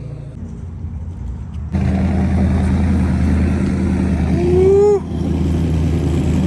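A truck engine running with a steady low rumble that gets suddenly louder about two seconds in. Near the end comes a short whoop-like tone that rises, then dips.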